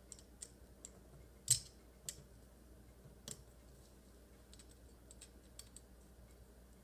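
Faint, scattered small clicks and taps of a screwdriver and metal parts while the aluminum side saddle's Chicago screws are tightened. The sharpest click comes about a second and a half in.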